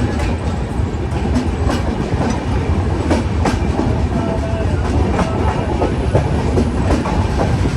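Tapti Ganga Express passenger train running at speed on the track: a steady loud rumble with the wheels clattering over rail joints in a quick, uneven run of clicks.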